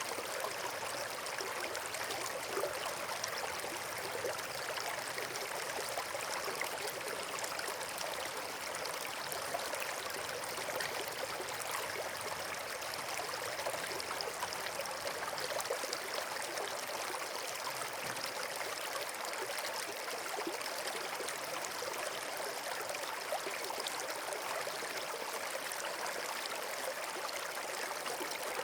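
Rushing water running steadily, an even hiss with fine splashing detail and no pauses.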